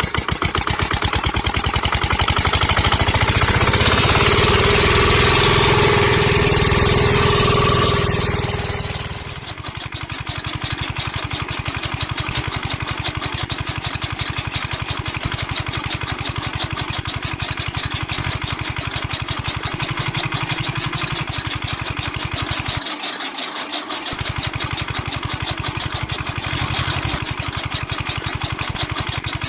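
Tractor engine running a chaff cutter with a rapid, even beat. For the first nine seconds it is louder, with a whining tone over it; then it drops to a steadier, quieter run.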